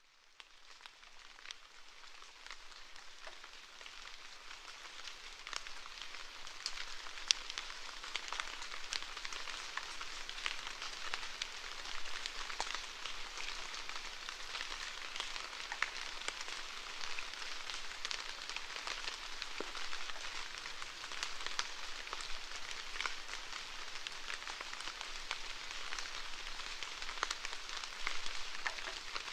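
Steady rainfall with many separate drop ticks, fading in from silence over the first few seconds and then holding steady.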